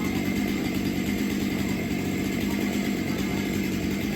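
Chainsaw engine running steadily, with an even, unbroken drone.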